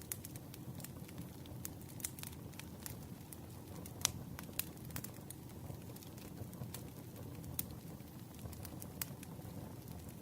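Campfire crackling: irregular sharp pops and snaps of burning wood over a steady low rumble of flames, the loudest pop about four seconds in.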